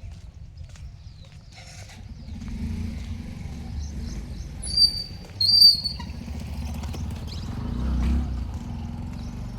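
A bird gives two short, loud, high-pitched calls less than a second apart, midway through, over a low steady rumble.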